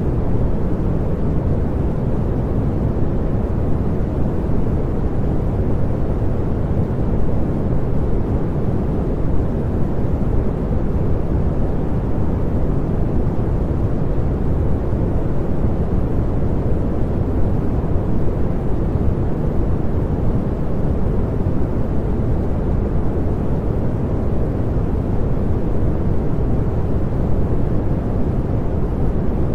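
Continuous pink noise: a steady, even hiss weighted toward the low end, unchanging throughout.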